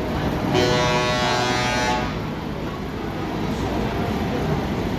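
A truck horn blasts for about a second and a half, starting about half a second in, over the steady rumble of truck engines and traffic.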